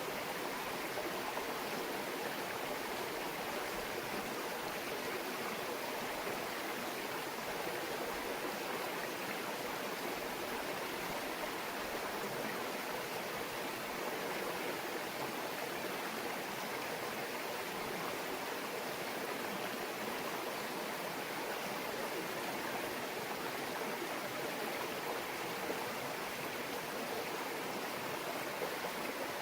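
A small mountain stream babbling steadily over rocks, an even rush of running water with no breaks.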